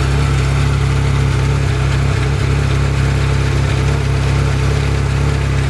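Ferrari F355's V8 idling steadily through a Capristo stage 3 aftermarket exhaust with QB headers, a loud, even low rumble.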